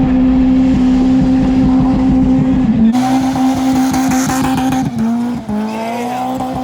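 Car engine running at a steady cruise, a constant droning note with road and wind rumble, heard from inside the car. The engine note dips briefly about five seconds in, then settles back.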